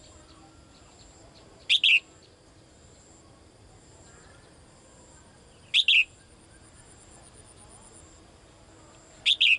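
A caged female songbird calling: three short, loud double notes spaced about three to four seconds apart. The call is a female calling for a male.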